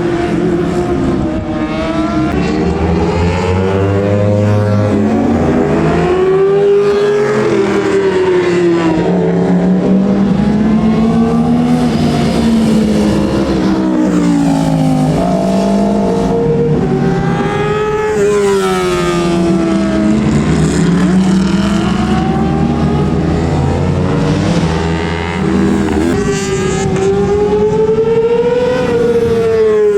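Several superbike racing motorcycles of 600 cc and up running together, their engines revving up and dropping back again and again as they accelerate and brake through the gears, the different engine notes overlapping.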